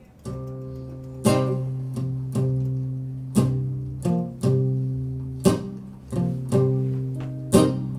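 Recorded music played back on a hi-fi system: a plucked string instrument picking single low notes and chords, each struck sharply and left to ring out, about one a second.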